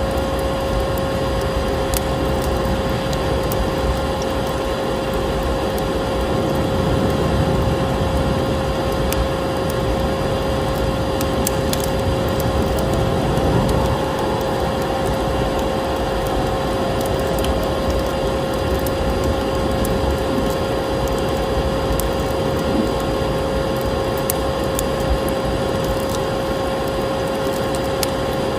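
Vacuum cleaner running steadily with a constant whine, mixed with the scattered crackle and pops of a wood fire in a fireplace.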